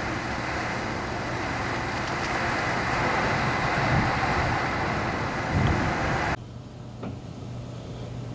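Strong storm wind rushing and buffeting the microphone. It cuts off abruptly about six seconds in, leaving a quieter steady low hum.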